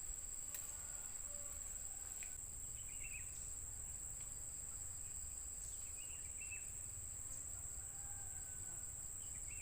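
Steady, high-pitched chirring of insects, with a few faint short chirps now and then.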